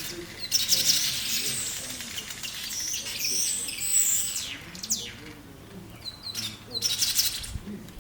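Black-headed weavers calling: a dense, continuous chatter of high, rapid calls for about four seconds, then quieter, with two short bursts of chatter near the end.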